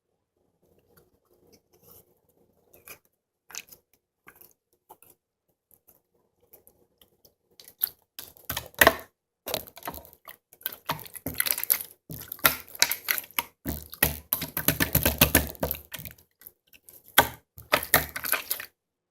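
Slime being handled: a few sparse sticky clicks at first, then from about eight seconds in a dense run of crackling clicks and pops as it is squeezed and worked.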